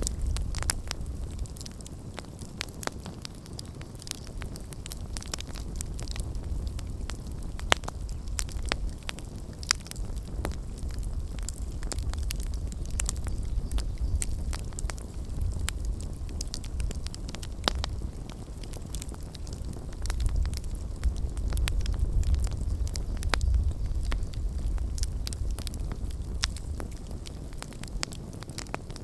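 Wood campfire burning, with frequent sharp crackles and pops over a low rumble of the flames.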